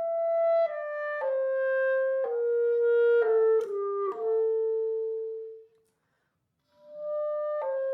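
Solo wind-instrument melody playing one note at a time. A long held note fades out about five seconds in, followed by a short silence, and the tune starts again near the end.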